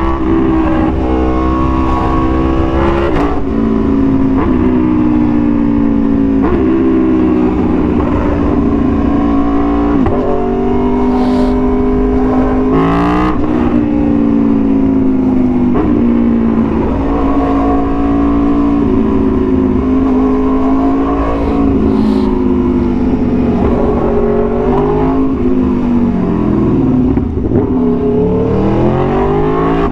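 Aprilia Tuono V4 1100's V4 engine through an SC-Project exhaust while riding: the engine note rises and falls again and again as the bike accelerates, shifts and backs off, with a few brief sharp cracks.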